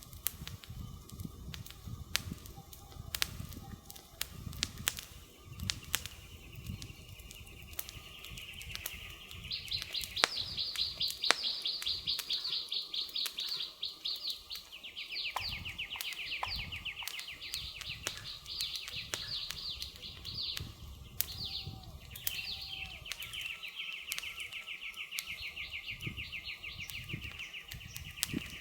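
Campfire crackling with frequent sharp pops over a low rumble of burning wood. From about a third of the way in, a high, fast trilling call runs on in long stretches and steps down in pitch twice.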